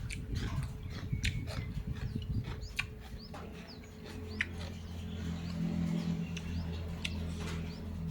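Small birds chirping in short, quickly falling notes, with scattered sharp clicks and taps, most of them in the first three seconds. A low steady hum comes in about four seconds in.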